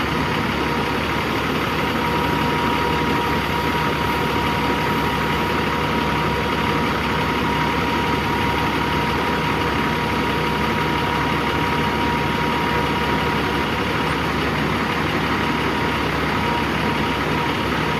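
The 15-litre six-cylinder diesel engine of a Peterbilt 357 crane truck idling steadily, with a steady high whine over the engine sound.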